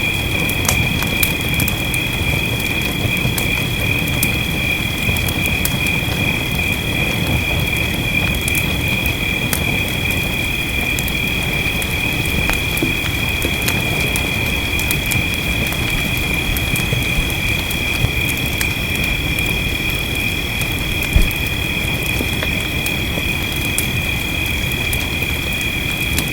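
Wood fire crackling with scattered sharp pops over a steady rain hiss and low rumble, one pop louder than the rest about 21 seconds in. A steady high-pitched trill runs underneath.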